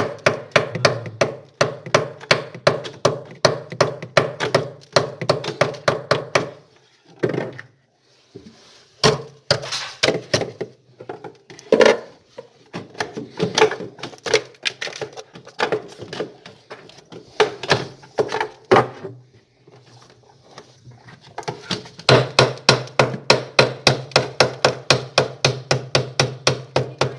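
Rapid, repeated knocking strikes, about five a second, in three bouts with short pauses: ice packed hard like iron being chipped and knocked loose inside a refrigerator's freezer, the cabinet ringing hollow under each blow.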